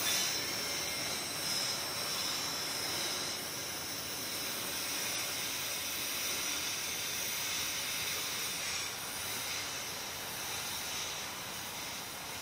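Tail of a container freight train rolling away along the track: steady wheel-on-rail noise that slowly fades as the wagons draw off.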